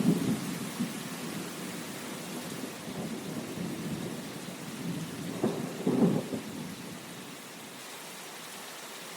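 Steady rain and wind, with two brief low rumbles: one at the start and one about six seconds in.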